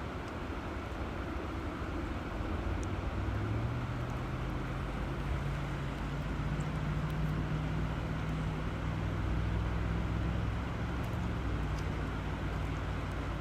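River water rushing steadily. Underneath it, from about three seconds in, a low hum sets in and shifts in pitch a couple of times.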